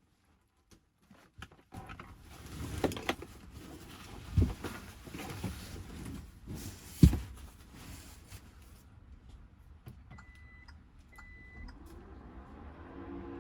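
Rustling and handling noise with knocks and two sharp thumps, then two short high electronic beeps about a second apart.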